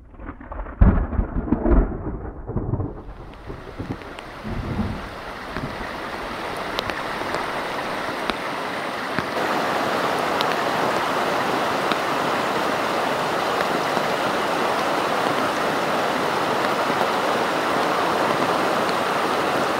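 Thunder rumbling for the first few seconds, then steady heavy rain that builds and grows louder about halfway through.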